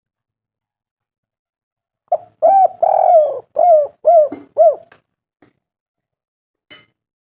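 Spotted dove cooing: one phrase of about six quick coos, starting about two seconds in and lasting about three seconds.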